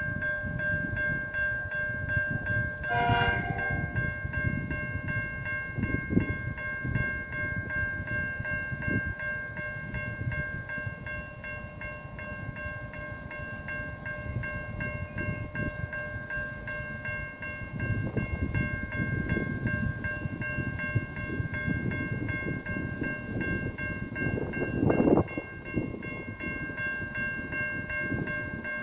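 Train running with a low rumble and a steady high whine, with a short horn blast about three seconds in.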